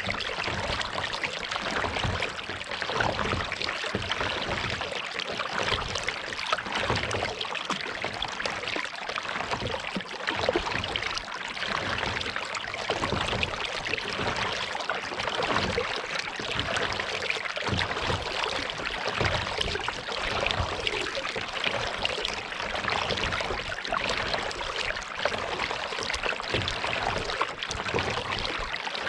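Kayak paddling on a lake: water splashing and trickling off the paddle blades and lapping at the hull, a steady run of small splashes.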